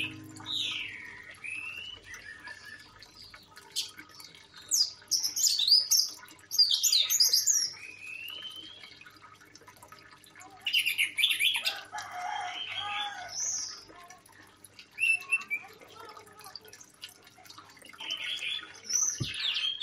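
Birds chirping and calling in short bursts, some of the whistled notes sliding down in pitch and back up.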